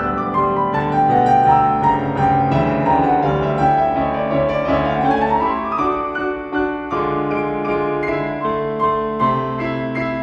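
Classical-style piano music: a run of notes falling in pitch over the first couple of seconds, then a rising run about five seconds in.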